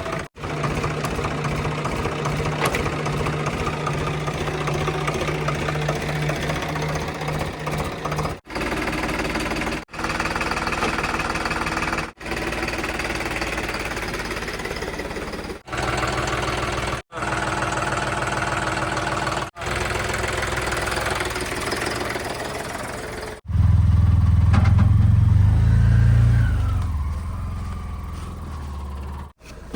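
Diesel engines of heavy machinery, a backhoe loader, tractors and tipper trucks, running steadily in a string of short clips that cut abruptly from one to the next. Near the end a much louder, deeper engine revs up and then eases off.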